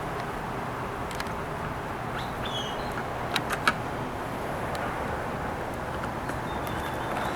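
Steady outdoor background noise with a few sharp clicks about three and a half seconds in, typical of a hand tool and screws being handled during work on the toilet.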